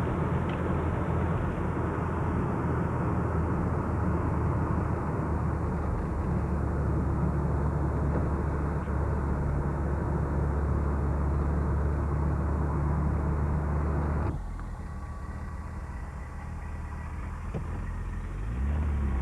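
Car engine and road noise heard from inside a moving car, steady. About 14 seconds in it cuts abruptly to a quieter engine hum, which grows louder again near the end.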